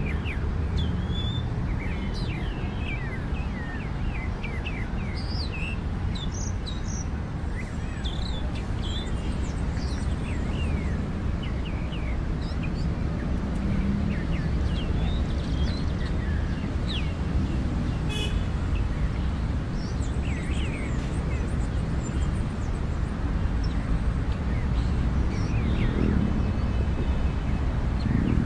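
Small birds chirping, many short rising and falling chirps, over a steady low rumble of outdoor noise.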